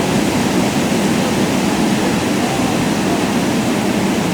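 Steady roar of whitewater pouring over a waterfall on the Youghiogheny River.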